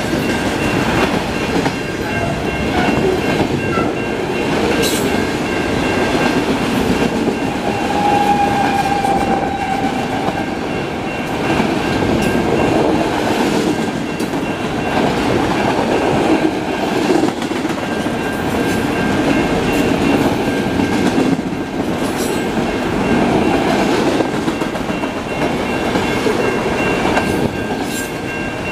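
Freight train of enclosed auto rack cars rolling past steadily: a continuous rumble of steel wheels on rail, with clicks as the wheels cross rail joints and a brief squeal about eight seconds in.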